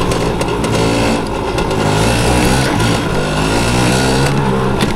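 Yamaha PW80's small two-stroke single-cylinder engine running as the dirt bike rides along, its pitch rising and falling with the throttle.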